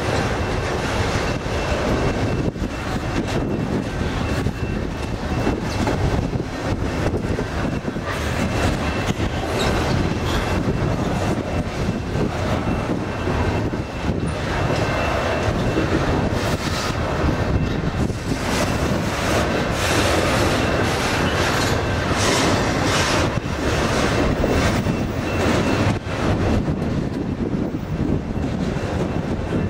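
Double-stack container well cars rolling past on the rails: a steady rumble of steel wheels with a continual stream of clicks and clanks, and a faint thin high whine held throughout.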